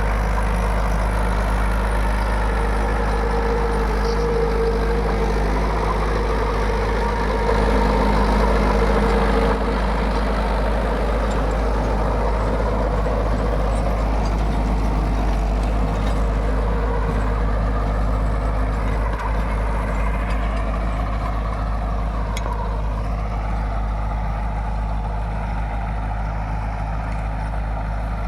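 Mahindra 475 DI tractor's diesel engine running steadily while working a rotavator, with a steady whine that dips briefly and recovers about twenty-two seconds in.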